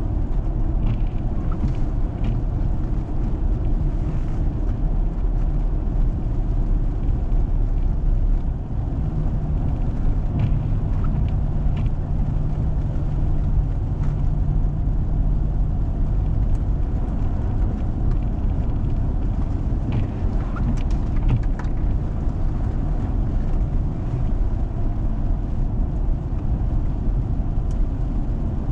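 A 4x4 driving on a snow-covered road: a steady low rumble of engine and tyres, with a few faint scattered clicks. The deepest part of the rumble eases about eight seconds in, and a slightly higher hum runs under it for several seconds.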